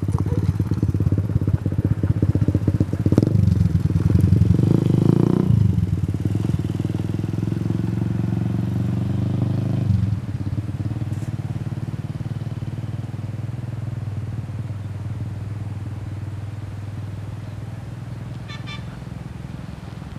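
An engine running. It gets louder briefly about four to five seconds in, drops back about ten seconds in, then runs steadily while slowly growing fainter.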